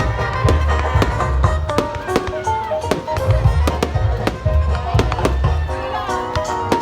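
Music with a pulsing bass and melody, with the sharp bangs of fireworks going off over it.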